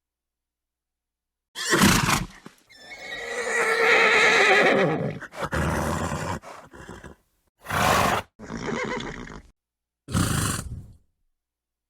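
A horse neighing and snorting. A short snort comes about two seconds in, then a long, wavering neigh of about two seconds. Several shorter snorts and blows follow, set apart by dead-silent gaps.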